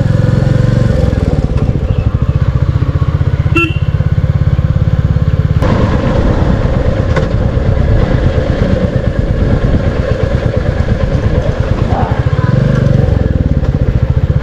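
Royal Enfield Classic 350's single-cylinder engine running while riding, a steady rapid thumping exhaust beat. The beat changes character about five and a half seconds in, and there are a couple of brief clicks.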